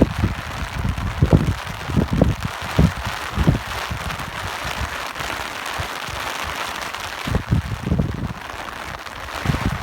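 Steady rain hiss with irregular low gusts of wind rumbling over it; the gusts come often in the first three seconds and again near the end, with a calmer stretch in the middle.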